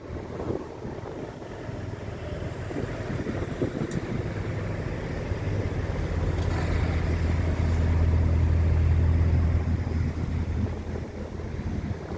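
Scania truck's diesel engine running with a low steady drone that swells to its loudest about eight to nine seconds in, then eases off. Wind buffets the microphone throughout.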